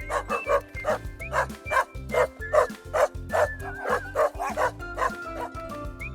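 Dog barking repeatedly in quick, sharp barks, about three a second, thinning out near the end, over light background music.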